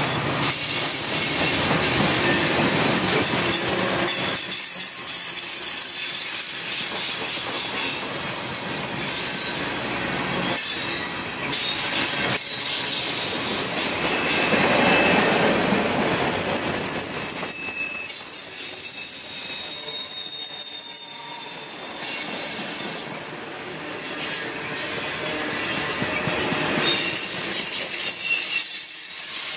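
Freight cars of a mixed freight train rolling past at trackside, steel wheels rumbling on the rails. A high-pitched wheel squeal comes and goes, with a few sharp clacks.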